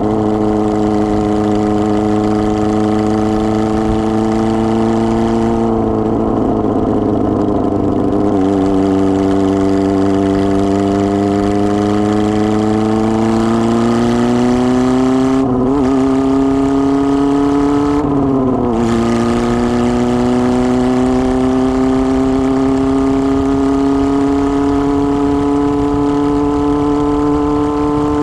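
A 1999 Kawasaki ZR-7's inline-four engine running with no exhaust muffler while riding. The engine note drops as the throttle eases off, then climbs steadily. It is cut twice by short breaks with a dip in pitch, the way an upshift sounds, before rising again.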